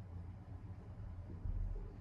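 Monte Carlo Vios ceiling fan running with a faint, steady low motor hum, with a brief low rumble about one and a half seconds in.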